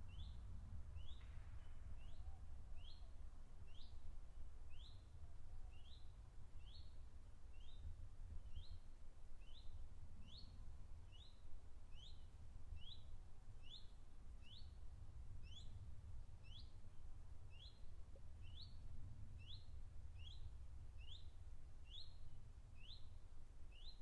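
A bird repeating one short, high call note over and over, about one and a half times a second, over a faint low steady rumble.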